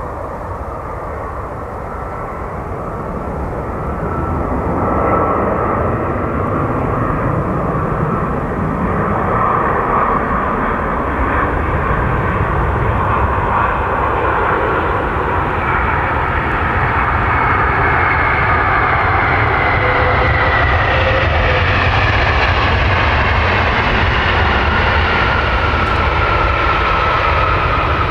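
Jet airliner engines. The noise grows louder about four seconds in and stays loud, with a whine that slowly falls in pitch as the aircraft passes.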